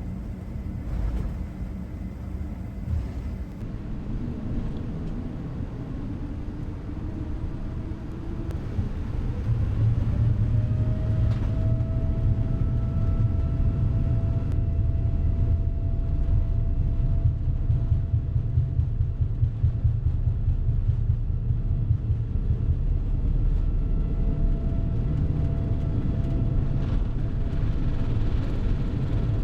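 Boeing 787-10 jet engines heard from inside the cabin, spooling up to take-off thrust: a whine rises in pitch and grows louder over a few seconds, then holds steady above a low drone as the aircraft rolls for take-off.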